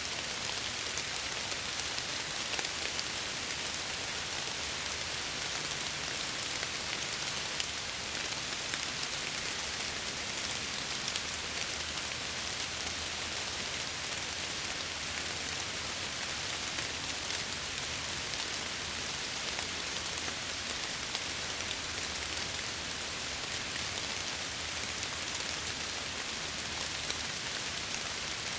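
Steady heavy rain with a fine patter of drops against window glass.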